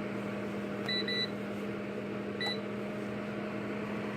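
Honeywell space heater running with a steady fan hum, its control panel beeping three short times: two quick beeps about a second in and one more a moment later.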